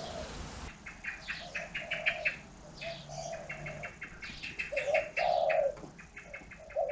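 Birds calling: runs of quick high chirps, about six or seven a second, over a lower call that comes several times and is loudest about five seconds in.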